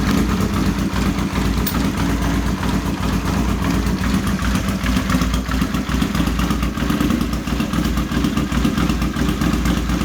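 Honda CX500's V-twin engine idling just after its first start following carburettor work. It runs steadily but a little rough, shaking somewhat, a sign the owner reads as the bike still having some problems.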